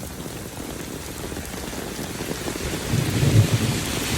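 Steady rain falling, with a low rumble of thunder building about three seconds in.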